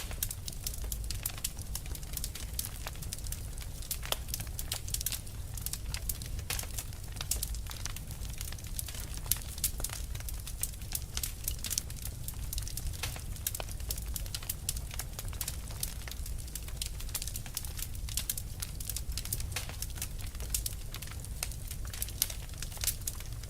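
Fire crackling: a dense, irregular run of sharp pops and snaps over a low steady rumble.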